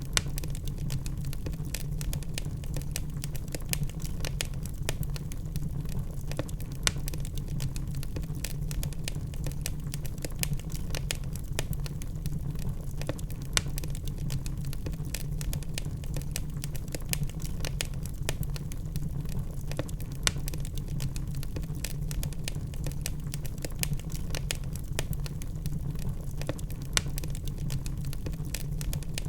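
Burning logs crackling in a fireplace: frequent irregular sharp pops and snaps over a steady low rumble of the fire.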